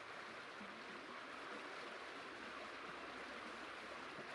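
Steady rushing of a valley stream, with no axe strokes heard.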